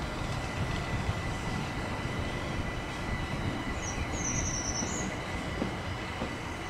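Electric multiple-unit train running on the line: a steady rumble with a thin steady whine over it, and a brief high wavering squeal about four seconds in.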